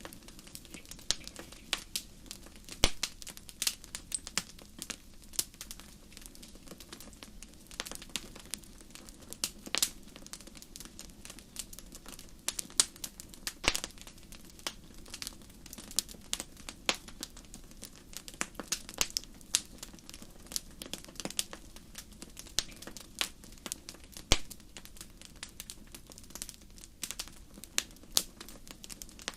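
Wood fire crackling: irregular sharp pops and snaps, several a second at their busiest, over a steady low background rush.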